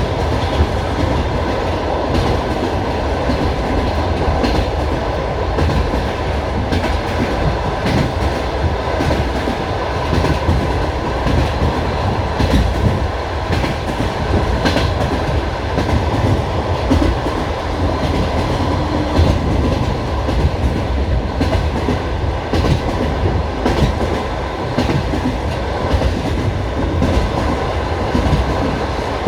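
Passenger train running, heard from inside the carriage: a steady low rumble with the irregular clacking of wheels over rail joints.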